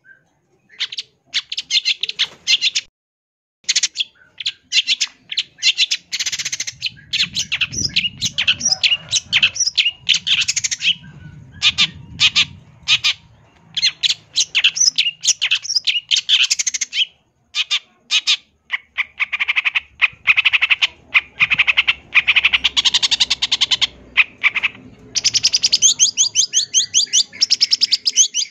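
Long-tailed shrike (cendet) singing a varied, mimicry-filled song: quick runs of harsh, chattering notes broken by short pauses, ending in fast trills.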